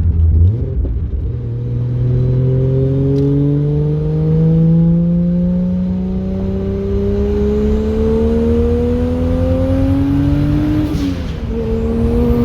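Turbocharged Ford Barra 4.0-litre inline-six in a BF Falcon Tornado ute, heard from inside the cabin. The engine note climbs slowly and steadily as the car pulls through a gear, then drops near the end with a short hiss as the driver shifts or lifts off.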